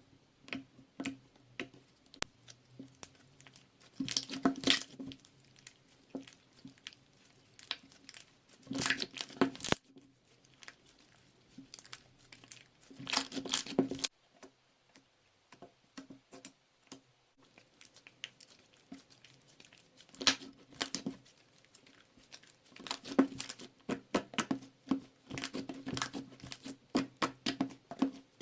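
Bursts of crinkling and crackling, like plastic or paper being handled, coming in clusters with short quiet gaps, over a faint steady low hum.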